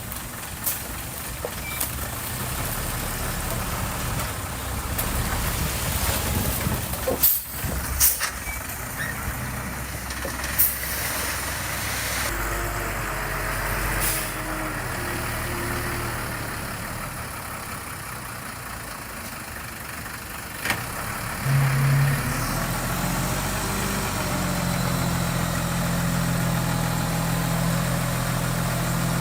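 Diesel earthmoving machinery working: engines running with several sharp clanks and knocks, and a steadier engine note setting in about three-quarters of the way through.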